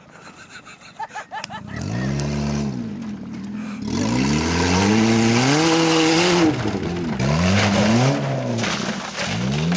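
Daihatsu car engine revving hard in repeated rises and falls, with a rushing hiss of wheels spinning on loose gravel during the loudest stretch. The abused engine is still running.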